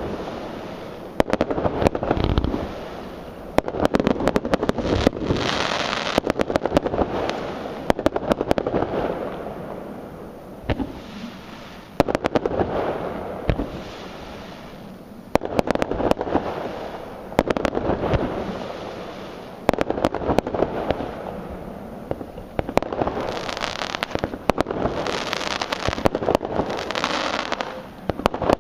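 Aerial fireworks display: a steady succession of shell bursts every second or two, each bang trailing off into a rumble, with bursts of bright crackling effects in places.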